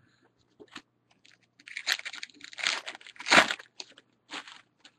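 A trading-card pack's wrapper being torn open and crinkled: a cluster of crackly tearing and rustling noises, loudest between about two and four and a half seconds in.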